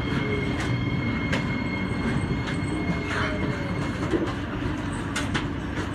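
Train running on rails: a steady rumble with a faint whine falling slowly in pitch and scattered sharp clicks from the wheels and track.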